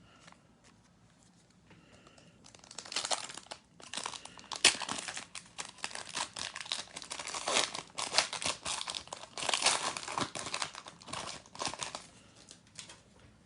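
Trading card pack wrapper being torn open and crinkled by hand, a dense crackling rustle that starts about two and a half seconds in and dies away near the end.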